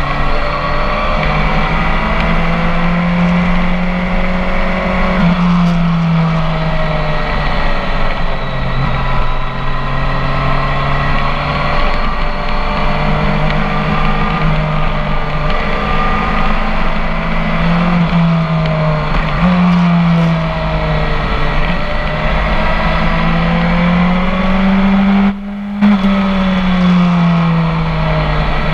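BMW K1300 S inline-four running through a full Akrapovic exhaust, heard from on board while riding, its pitch slowly rising and falling with the throttle. The sound cuts out briefly about 25 seconds in, then the pitch falls away.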